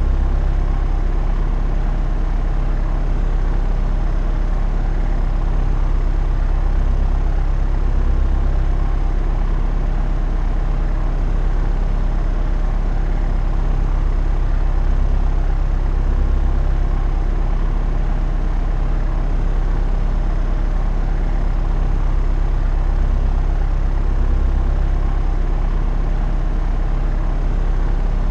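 Propeller airplane in flight: steady drone of the engine and propeller with a deep, even hum and a slight slow swell in level.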